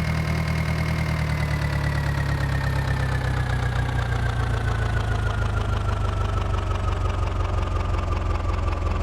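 Powertrac tractor's diesel engine running steadily, its speed easing down slowly over several seconds. A thin high whine drops in pitch along with it.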